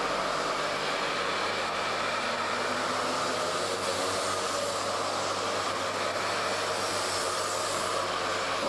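Mini bike engines running, a steady buzzing whine that drifts slightly in pitch.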